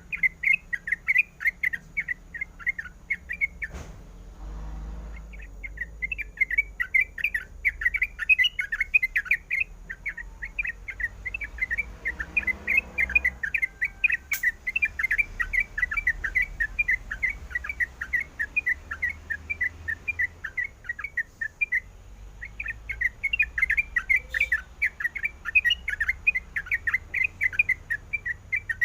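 Yellow-vented bulbul calling: a fast run of short, repeated chirping notes, about five a second, pausing briefly twice. A single faint click partway through.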